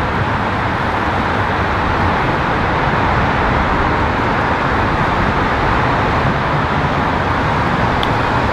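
Steady outdoor roar of road traffic, even and unbroken, with a low rumble beneath.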